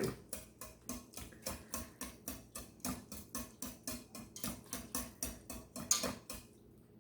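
A utensil mashing soft cooked potatoes in the soup in an Instant Pot's stainless steel inner pot. It makes a steady run of soft knocks and squelches, about four a second, and stops shortly before the end.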